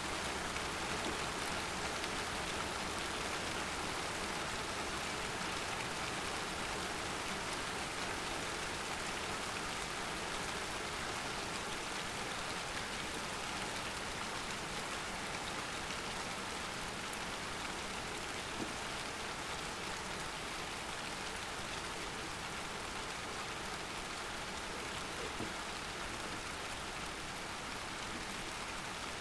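Steady rain falling during a thunderstorm, an even hiss of drops on surfaces with a few separate drips standing out, easing slightly over the stretch.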